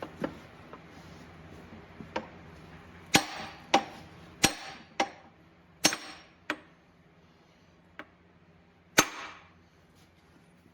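Hammer blows on steel transmission parts: about ten sharp metallic strikes at uneven intervals, the loudest few ringing briefly.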